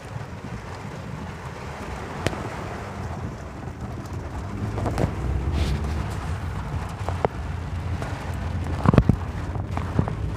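Low rumble of a car driving through a thunderstorm, slowly growing louder, with scattered sharp knocks and a loud cluster of knocks about nine seconds in.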